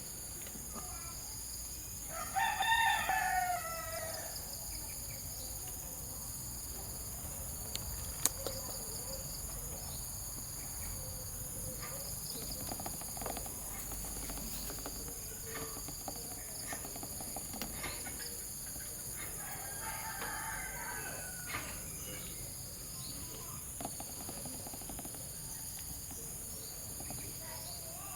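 A rooster crows loudly once, about two seconds in, and again more faintly about two-thirds of the way through. Under it runs a steady high-pitched insect drone, with a few small clicks.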